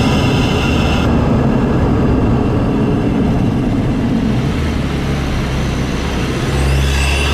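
Mk7 Volkswagen GTI's turbocharged four-cylinder engine heard from inside the engine bay through a CTS aftermarket cold air intake, running steadily while driving. The higher intake rush drops away about a second in and builds again near the end.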